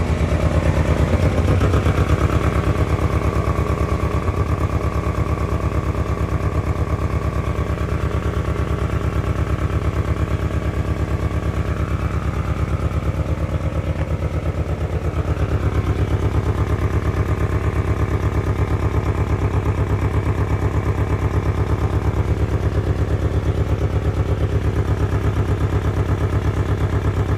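1997 Ford Ranger engine idling roughly, with a steady pulsing beat and small swells in loudness; the rough idle persists even with a new fuel pump fitted.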